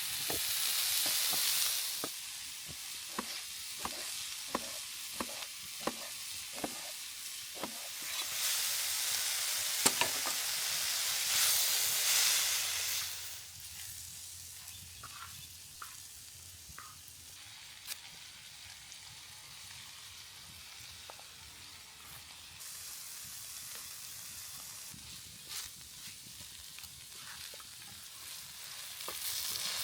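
Food frying in a large skillet over a campfire, sizzling in loud surges that die down to a quieter sizzle for the second half. A utensil clicks against the pan in a regular run of about two clicks a second during the first quarter, then only now and then.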